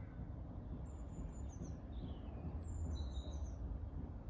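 Songbirds singing: high, thin phrases of short notes that slide downward, two main phrases about a second and a half apart, over a steady low rumble of background noise.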